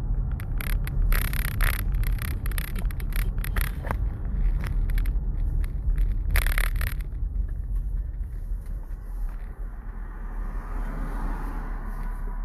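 Car running, heard from inside the cabin as a steady low rumble. Over the first seven seconds there is a string of short clicks and scrapes on top, and after that only the rumble.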